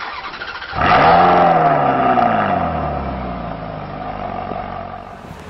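Car engine revving sharply about a second in, then its pitch falling slowly as it dies away, used as an intro sound effect.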